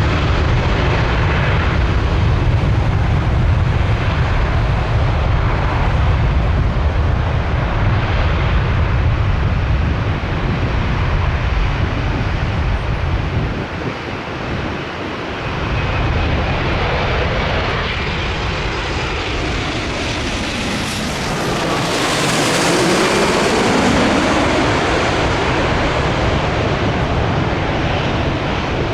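Jet airliner engines as large passenger jets fly low overhead on final approach: a heavy rumble for the first half, then a second jet's whine sweeps down and back up as it passes overhead about two-thirds of the way through.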